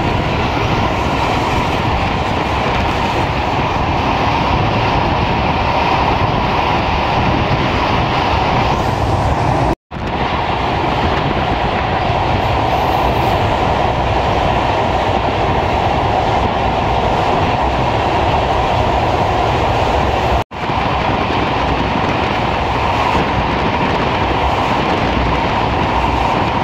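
Passenger train running along the track, a steady, continuous noise of the moving train. The sound cuts out abruptly twice, for a split second, about ten and about twenty seconds in.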